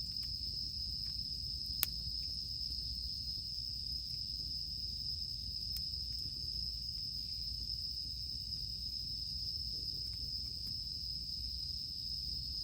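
Cicadas droning in a steady, unbroken high chorus over a low rumble. A campfire gives one sharp crackle about two seconds in and a few faint ticks later.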